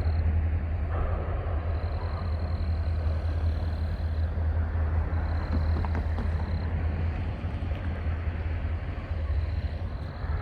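GP40-2 diesel-electric locomotive running with a steady deep engine hum.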